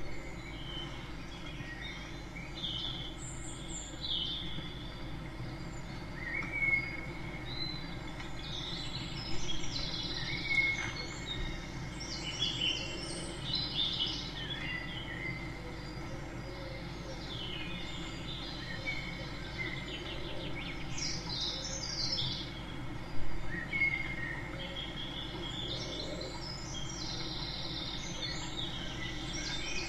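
Small songbirds chirping and calling, with short high notes and quick trills coming again and again, over a steady low background rumble.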